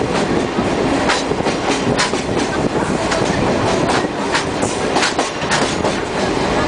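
Torokko sightseeing trolley train running, heard from on board: a steady rumble of wheels on rails with sharp clacks at irregular intervals as the wheels cross rail joints.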